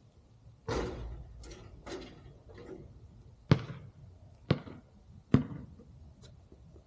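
Basketball hitting hard surfaces. There is a longer, louder hit about a second in, a few lighter knocks, then three sharp bounces on the court, each coming a little sooner than the last.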